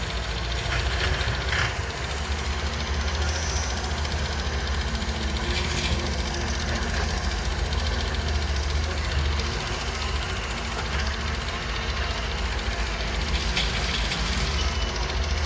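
Heavy diesel engine running steadily with a deep low rumble, and a few short knocks scattered through it.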